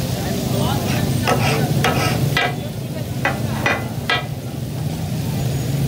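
Chicken pieces sizzling in oil on a large flat iron tawa griddle. About seven short, sharp knocks come in the first four seconds.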